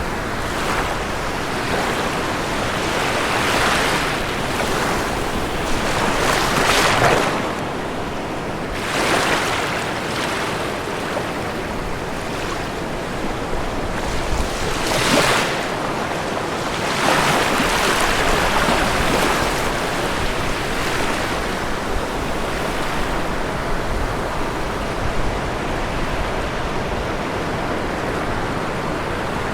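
Ocean waves breaking on a shore: a continuous rush of surf, with several louder waves swelling and fading over a second or two each.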